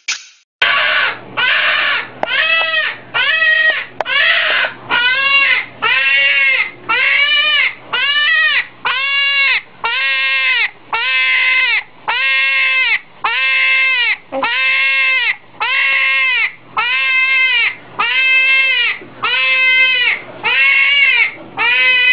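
Hedgehog screaming over and over, a high call about once a second, each call rising and falling in pitch, while it is being handled.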